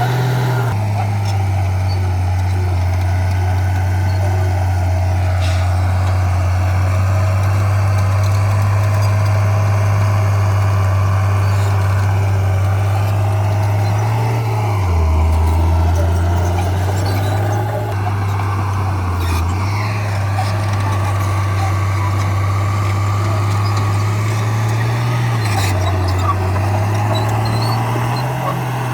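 Crawler bulldozer's diesel engine running steadily and loudly, its pitch sagging briefly a few times, about halfway through and again later, then recovering.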